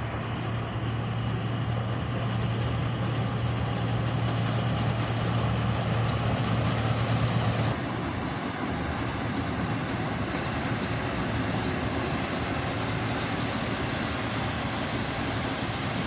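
An engine running steadily, with a low hum that weakens about eight seconds in while the running noise carries on.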